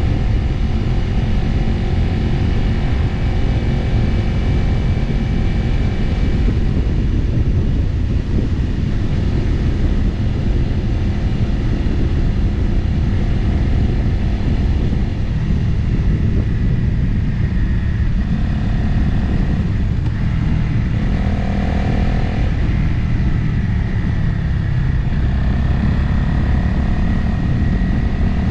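Motorcycle engine running while riding, under heavy wind noise on the microphone. The engine pitch changes a few times in the second half.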